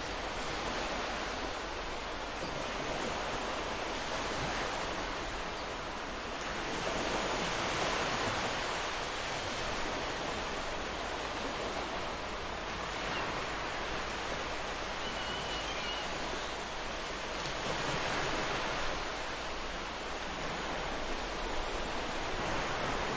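Ocean surf washing onto a beach: a continuous rush of breaking waves that swells louder about seven seconds in and again about seventeen seconds in as larger waves break.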